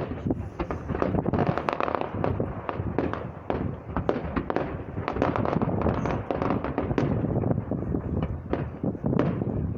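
Fireworks display going off, a dense, continuous run of bangs and crackles, one after another with barely a gap.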